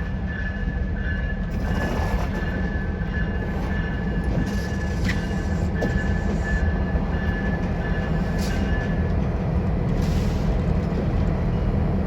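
Train rolling past with a steady low rumble of wheels on rail, and a thin high wheel squeal coming and going until about nine seconds in.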